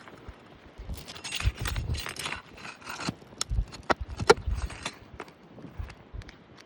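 Irregular scraping, clicking and knocking from handling three-tab asphalt shingles on a roof, with low thumps underneath; a sharp click a little past four seconds in is the loudest.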